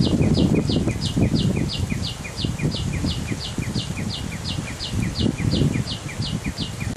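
A bird repeats a short two-part chirp evenly, about three times a second, over a louder, steady low rumbling noise.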